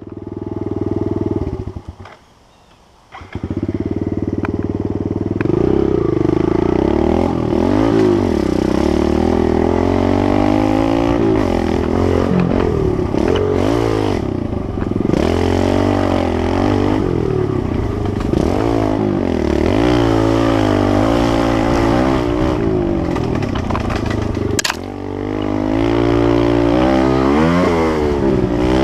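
Kawasaki KLX110L pit bike's small single-cylinder four-stroke engine being ridden, its revs rising and falling over and over as the throttle is worked. The engine sound drops away for about a second near the start, and there is a sharp click near the end.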